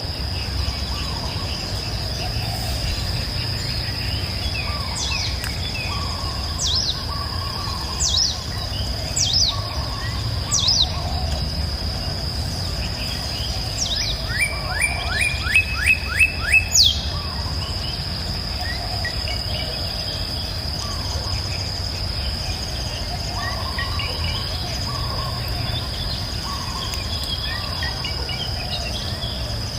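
Several birds calling, with sharp downward-sweeping whistles and, around the middle, a quick run of short falling notes, over a steady high-pitched insect drone and the low rush of a river.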